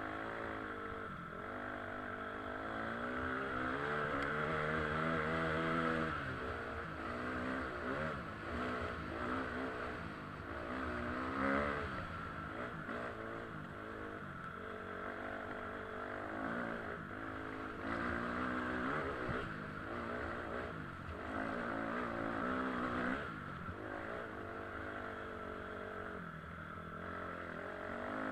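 KTM EXC 250 enduro motorcycle engine under way off-road, revving up and dropping back again and again as the rider throttles and shifts.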